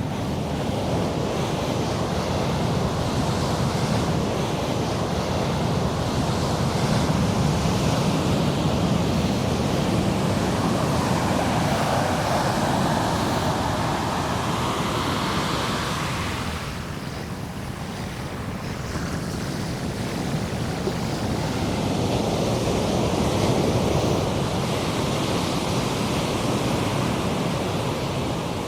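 Ocean surf breaking and washing in over the shallows, a steady wash of noise that swells and ebbs, easing off about two-thirds of the way through before building again. Wind buffets the microphone.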